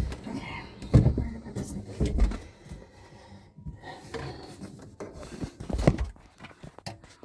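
Scattered knocks and bumps of a disconnected dishwasher drain hose and under-sink plumbing being handled and worked at inside the sink cabinet.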